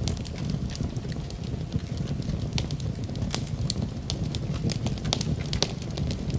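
Wood fire crackling in a fireplace, with irregular sharp pops and snaps over a steady low rumble, and rain mixed in beneath it.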